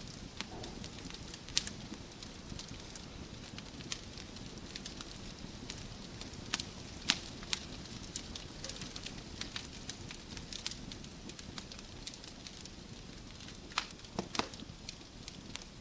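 Wood fire in a fireplace crackling, with a steady low rumble of flames and irregular sharp pops and snaps from the burning logs, a few louder pops standing out.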